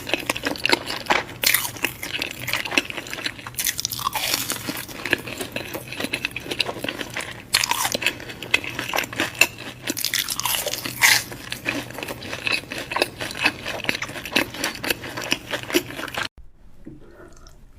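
Close-miked eating: crunchy bites and chewing of crisp food, a dense run of crackling crunches. It stops abruptly near the end, giving way to much quieter sound.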